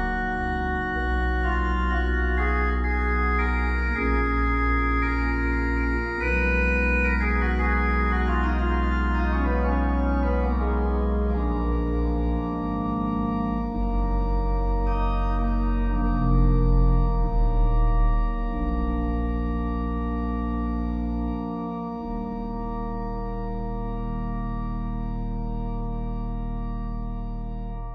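Slow organ music: sustained chords changing every second or two, then one long held chord through the last several seconds.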